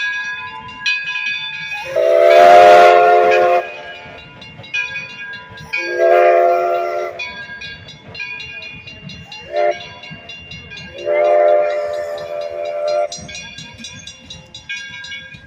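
Steam locomotive whistle sounding a chord in four blasts, long, long, short, long: the road-crossing signal. A bell rings steadily, one stroke about every second, beneath the whistle.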